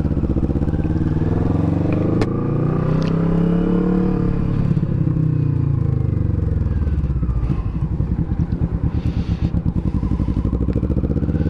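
Kawasaki Vulcan S 649 cc parallel-twin growling through an aftermarket Delkevic exhaust: the revs rise over the first few seconds, fall away again, and the engine then runs at low revs with a pulsing beat near the end.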